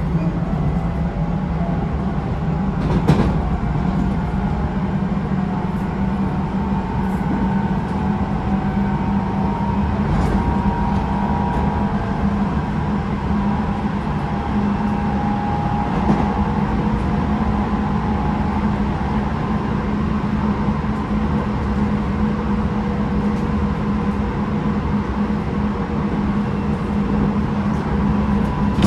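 Tobu 9050 series electric train heard from inside its motor car, running with a steady rumble and a low hum. Three sharp wheel clicks on the rails stand out, at about 3, 10 and 16 seconds. The car's air conditioning runs underneath.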